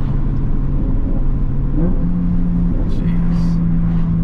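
Toyota MK5 Supra's turbocharged B58 3.0-litre inline-six, fitted with a big turbo, cruising at light throttle as a steady engine drone. The pitch steps up a little about two seconds in, and a brief hiss comes near the three-second mark.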